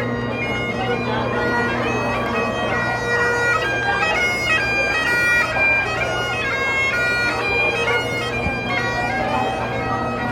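Bagpipes playing a tune, the chanter's melody stepping from note to note over steady, unbroken drones.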